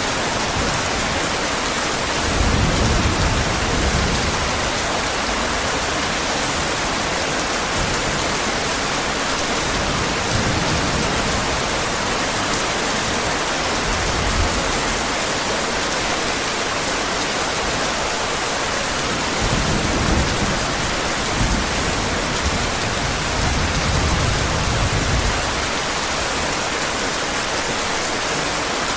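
Heavy rain falling steadily, with low rumbles of thunder coming and going several times.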